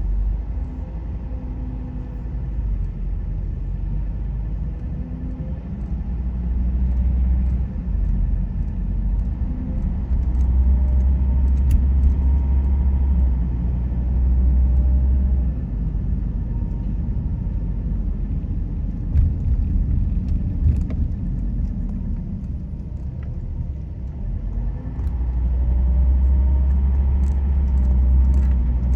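Car on the move: a steady low rumble of road and engine noise that swells louder twice, with a few faint clicks and rattles.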